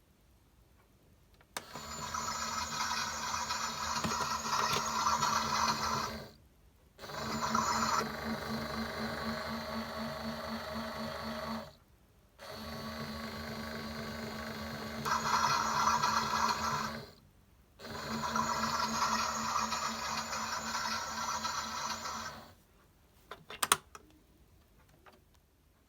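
Bosch toy washing machine running its wash cycle: four runs of steady motorised whirring, each about five seconds long with short pauses between them, and a few sharp clicks near the end.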